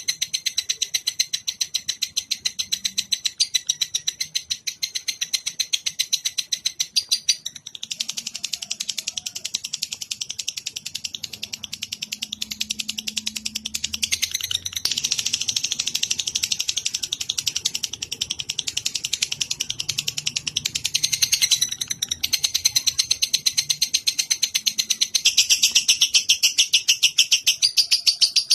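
Recorded songbird song for training cage birds: a continuous, very fast high-pitched chattering trill that changes its pattern every several seconds.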